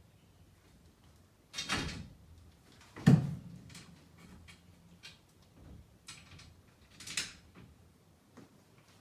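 Scattered knocks, bumps and light clicks of a camper window being worked into the wall opening of a box-truck body, the loudest knock about three seconds in.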